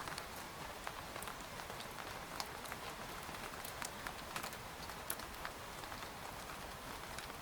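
Steady rain falling on a tent: an even hiss with many separate drops ticking sharply against the fabric, several a second.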